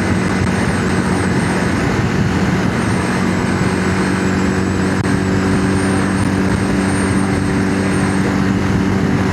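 Yamaha XVS650's air-cooled V-twin engine running steadily at cruising speed on the road, under a dense rush of wind and road noise.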